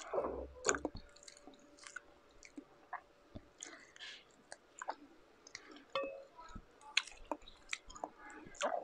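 Close-up eating sounds of lansones fruit: soft chewing and small wet mouth clicks, mixed with faint crackles as the fruit's thin skin is peeled apart by hand. The sounds come in scattered short clicks with no steady sound behind them.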